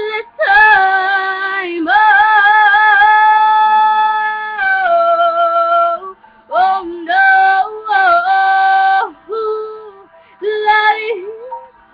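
A female voice singing long, wordless held notes with vibrato in several phrases, separated by short breaths.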